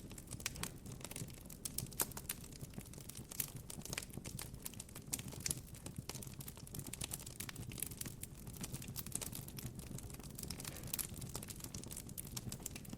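Campfire crackling: irregular sharp pops and snaps of burning wood, over a soft low rumble. The sharpest pop comes about two seconds in.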